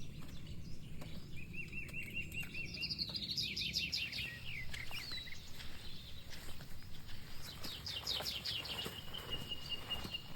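Songbirds singing: a run of quick repeated chirps, then two runs of fast falling trill notes a few seconds apart, the second ending in a held high whistle, over a steady low background rumble.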